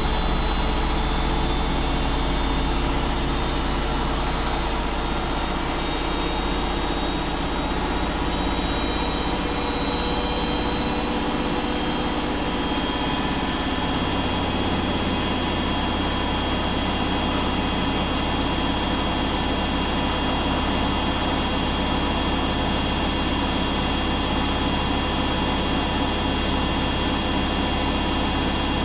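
Washing machine spinning at high speed in its spin cycle: a steady whine over a low hum, the hum shifting about halfway through.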